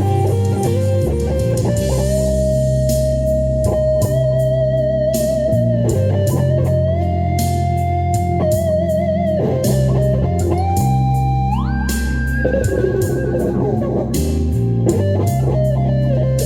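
Electric guitar playing a lead melody over a backing track of drums and bass: long held notes with vibrato, and a quick slide up to a higher note about twelve seconds in.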